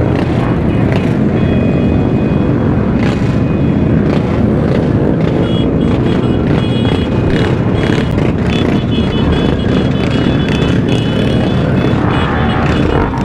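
Steady wind rush and road noise on the microphone while riding an electric mini bike, with music playing over it.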